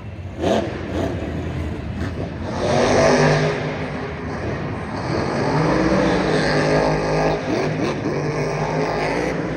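Monster truck engine revving hard, its pitch climbing and falling several times, with the loudest surges about a third of the way in and again past the middle.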